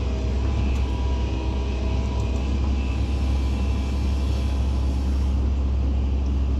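Hydraulic excavator's diesel engine running steadily, a low, even rumble.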